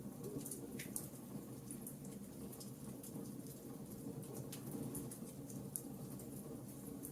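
Wood fire burning in a fireplace: a steady low rumble with irregular sharp crackles and pops, one of the louder pops about a second in.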